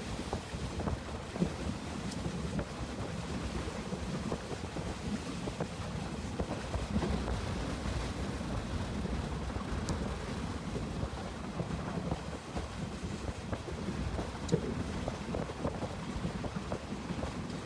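Train running: a steady low rumble with scattered rattles and small clicks.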